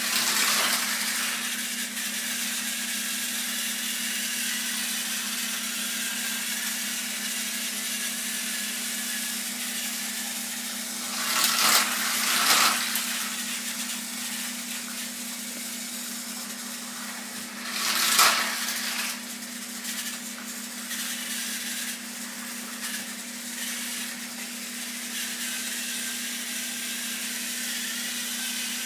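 Battery-powered toy train motor whirring steadily as the engine runs along its track, with a few louder, noisier moments about eleven to thirteen seconds in and again around eighteen seconds.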